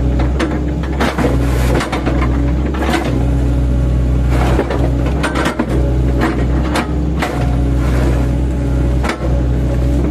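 Mini excavator's diesel engine running steadily under load, with irregular knocks and crunches as the blade-fitted bucket chops oil palm trunks.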